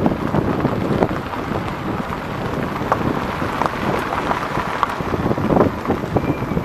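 Wind buffeting the microphone, a rough rumbling rush that swells and dips unevenly.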